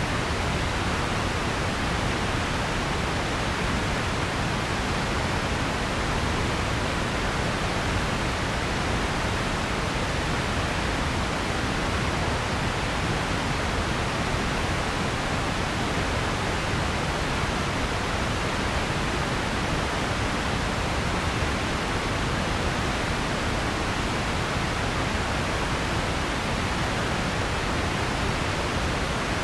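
Steady, unbroken noise hiss like pink noise, even throughout, with no events and a softer top end.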